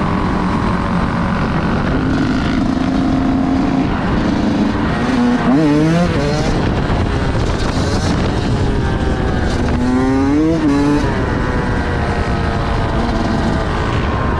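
Several vehicle engines running loud together, with two quick revs that rise and fall in pitch about five and ten seconds in.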